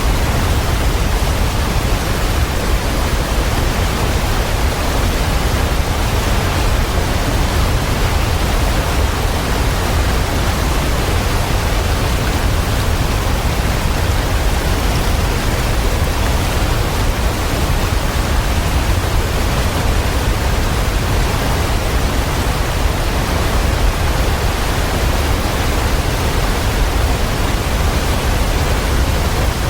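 Waterfall: a steady, unbroken rush of falling water, heaviest in the low end, with no change throughout.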